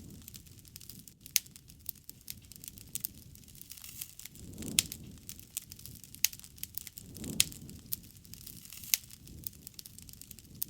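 Wood bonfire crackling: sharp, irregular pops and snaps over a low rush of flame that swells twice near the middle.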